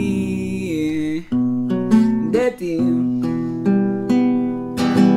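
Acoustic guitar strumming chords in a slow ballad. A sung note, held and wavering, ends about a second in. The guitar then plays on alone through the pause between lines.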